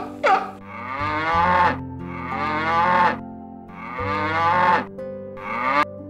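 Sea lion calling: a short bark, then three long, drawn-out calls about a second each, and another short call near the end.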